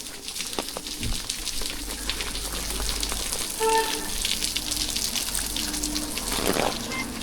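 Steady rain falling, many small drops pattering on hard surfaces. A low rumble comes in about a second in, and a short tone sounds near the middle.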